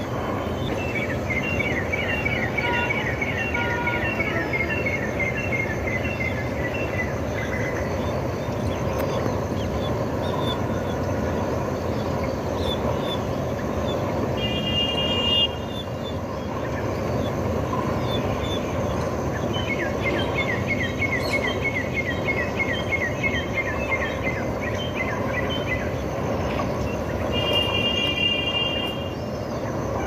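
A bird calling in a rapid run of short high notes that slowly fall in pitch, heard twice, over a steady loud rumble of outdoor background noise. Twice a brief steady high tone sounds.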